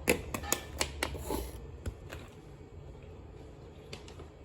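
A quick run of light clicks and knocks, like objects being handled and set down, in the first second and a half, then a faint low hum.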